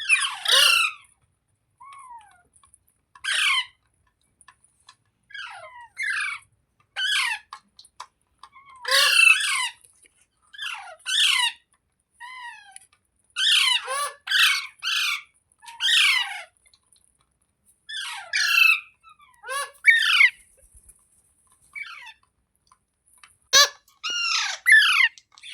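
Pet rose-ringed parakeet squawking and calling over and over, with short harsh calls every second or two and some bunched in quick runs of three or four.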